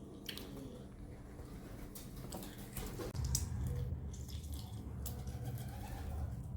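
Close-up mukbang eating sounds: wet squishing and scattered clicks of someone eating chicken curry and rice. A low steady rumble sets in about three seconds in.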